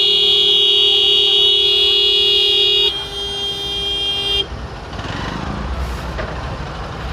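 A vehicle horn held in one long, steady blast that drops in level about three seconds in and cuts off suddenly about four and a half seconds in. Road traffic rumble follows.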